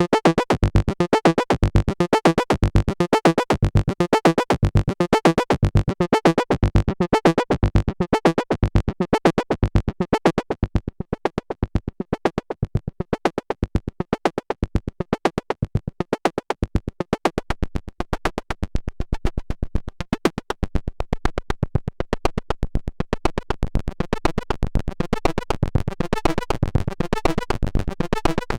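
Moog Sub Phatty analog monophonic synthesizer playing a fast sequenced pattern of short repeated notes. About a third of the way in, the deep bass notes and the bright top drop away as the filter closes, and the low end comes back near the end.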